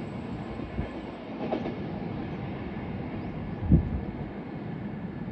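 Coaches of the Shalimar–Porbandar Superfast Express rolling away along the track, a steady rumble with wheels clattering over the rail joints. One heavy low thump comes a little before four seconds in.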